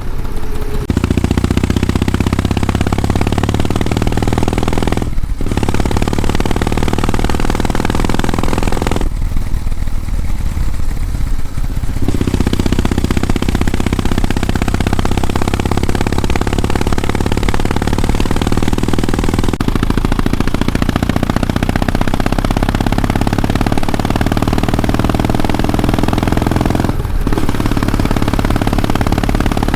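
Kawasaki W650 air-cooled parallel-twin motorcycle exhaust, running steadily under way. The throttle is closed briefly about five seconds in and again near the end, and eased off for a few seconds around ten seconds in.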